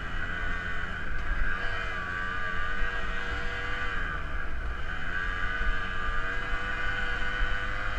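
Dirt bike engine running while riding. Its pitch holds steady, dips about halfway through as the throttle eases, then picks up again.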